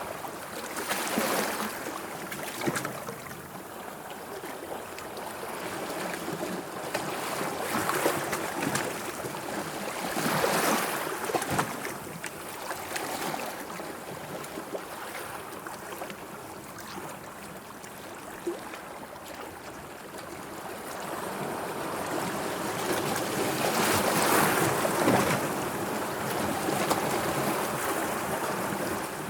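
Sea water washing and lapping in slow, irregular surges, the loudest about two-thirds of the way through.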